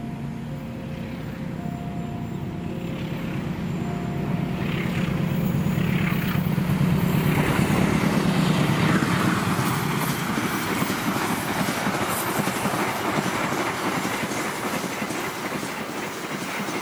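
A diesel locomotive passes at speed hauling an express passenger train. The engine rumble builds to its loudest about eight seconds in, then gives way to the steady rush of the coaches' wheels on the rails.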